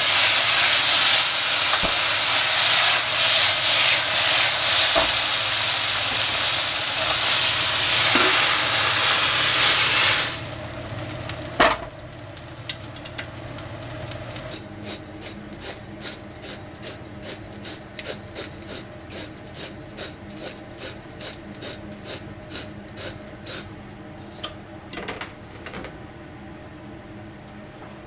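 Eggplant strips sizzling hard in a hot frying pan over a gas burner as they are stirred, freshly doused with soy sauce; the sizzle cuts off about ten seconds in. A single sharp knock follows, then a run of light, evenly spaced ticks.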